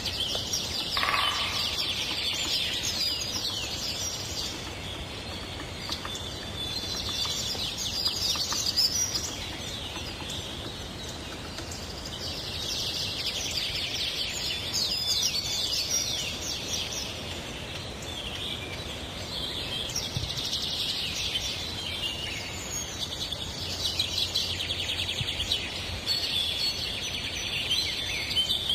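Many birds chirping and trilling together, the chorus swelling and fading in waves over a faint steady background hiss.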